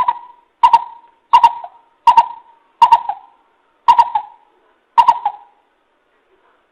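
Coucal (bìm bịp) calling a series of seven deep, hollow hoots, each starting sharply and fading, about one every 0.7 s and slowing slightly near the end. It is played as a lure call for trapping.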